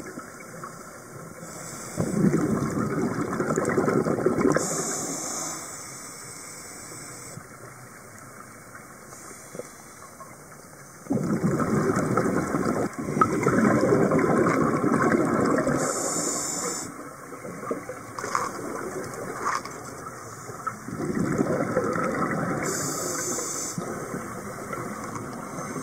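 Sea water rushing in three long surges, each lasting several seconds, with quieter gaps between them.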